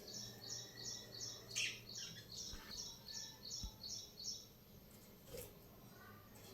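A small bird chirping in a quick, regular series of high chirps, about three a second, with a couple of louder calls among them; the series stops about four and a half seconds in.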